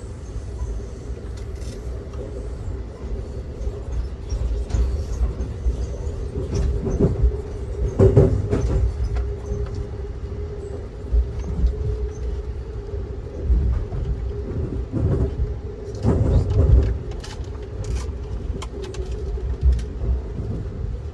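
Ride noise inside a moving Amtrak Auto Train passenger car: a steady low rumble of wheels on track with a constant hum, swelling louder twice, about eight and sixteen seconds in, with scattered clicks.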